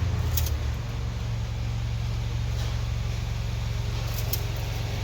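Steady low mechanical hum, with two faint ticks.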